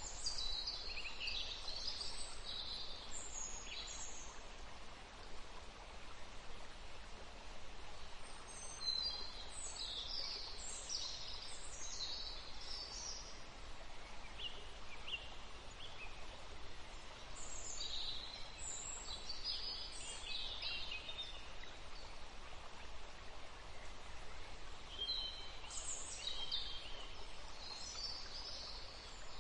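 Birds chirping in short clusters of high calls every several seconds, over a steady background hiss.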